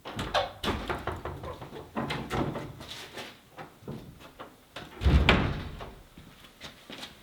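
A series of knocks and clattering from things being handled, with one heavy thump about five seconds in.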